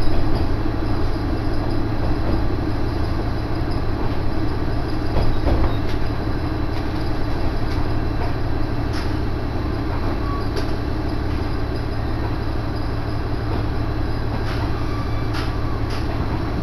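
Diesel railcar running: a steady low engine hum and rail rumble that slowly grows quieter.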